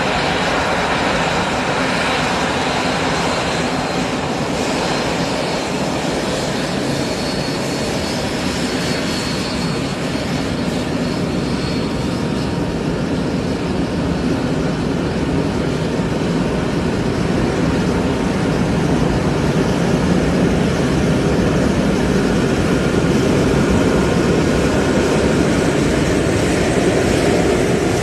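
Airbus A380 jet engines running: a steady rush of engine noise that grows louder about two-thirds of the way through.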